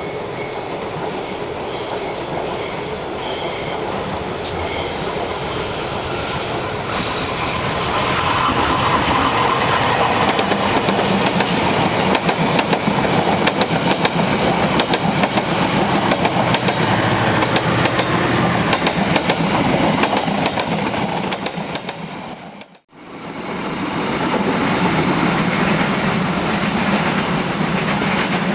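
Train running past on a curve: a steady rumble of wheels on rail with clickety-clack, and a high intermittent wheel squeal over the first several seconds. About two-thirds of the way through, the sound cuts out abruptly for a moment, then another stretch of passing train fades back in.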